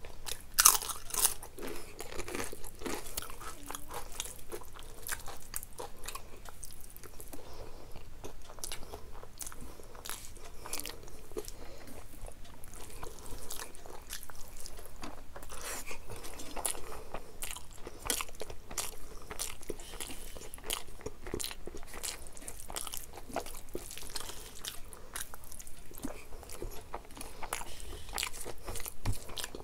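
A person biting and chewing crunchy fried food close to the microphone, with continual crisp crunches and mouth sounds, the loudest crunch about a second in.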